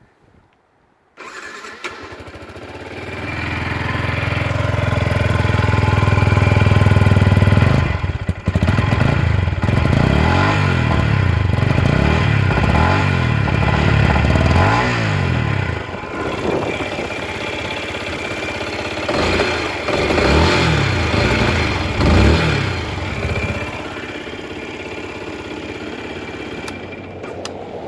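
Yamaha MT125's single-cylinder four-stroke engine starting from cold: it catches abruptly about a second in and climbs to a raised idle. It is then revved in a series of throttle blips, each rising and falling in pitch, before settling back to a steady idle near the end.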